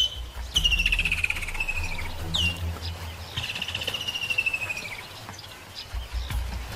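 Birds calling: short, sharply down-slurred whistles and two long, fast trills that slowly fall in pitch, over a low rumble.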